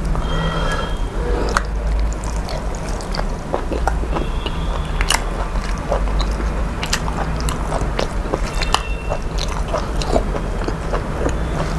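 A person eating: irregular crunchy bites and chewing, with a steady low hum underneath.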